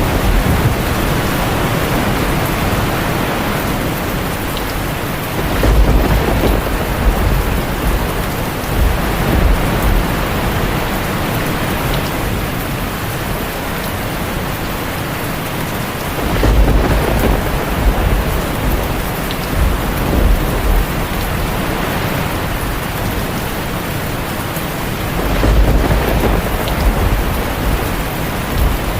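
Heavy rain drumming steadily on a tin roof, with thunder rumbling low three times: about 6 seconds in, again around 17 seconds, and near the end.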